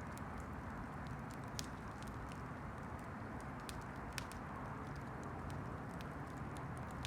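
Wood campfire burning: a steady low rush with irregular sharp crackles and pops, two of them louder, about a second and a half and about four seconds in.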